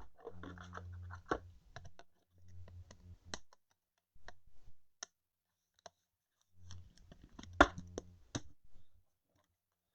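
Trading cards being handled by hand, with scattered light clicks and taps as cards and plastic sleeves knock together. A sharper click comes about seven and a half seconds in.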